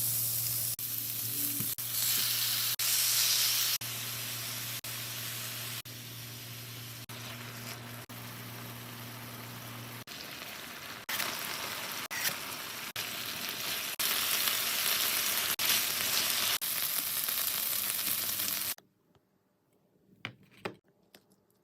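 Food sizzling and frying in a hot pan, cut into a string of short clips, with a low steady hum underneath for about the first ten seconds. Near the end the frying stops, leaving only a few faint clicks.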